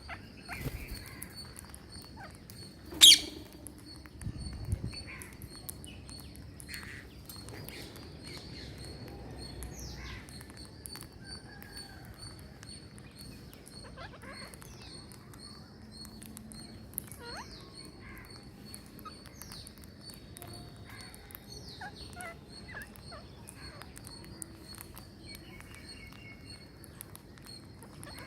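Green parrots calling: scattered short chirps and sweeping squawks, with one loud shrill call about three seconds in. A steady, high, pulsing tone runs underneath.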